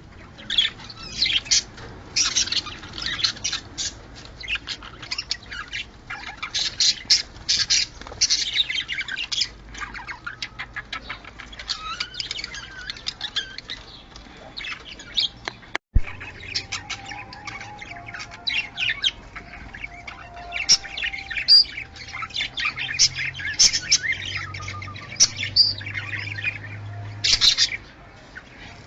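Budgerigars chattering and warbling, a dense run of quick high chirps and squawks with hardly a pause, broken by a brief dropout about halfway through.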